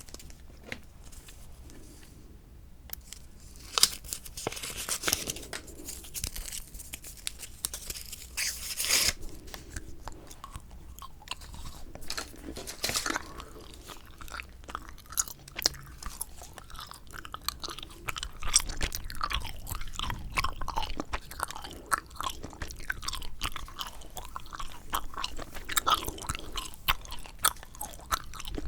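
Bubble gum being chewed close to the microphone: a run of quick, wet, sticky clicks and smacks that grows denser after the first few seconds.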